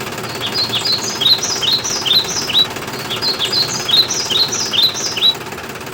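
A bird chirping in two quick runs of short, falling chirps, each run lasting about two seconds, over the steady hum of a small motor.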